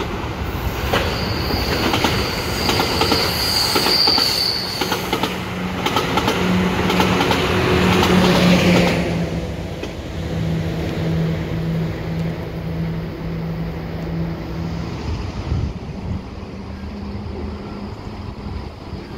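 EXO commuter train of bilevel coaches passing close by: wheels clacking over the rail joints, with a brief high wheel squeal about three seconds in, loudest around eight seconds, then dying away after about nine seconds. A low steady hum carries on for several seconds more before fading.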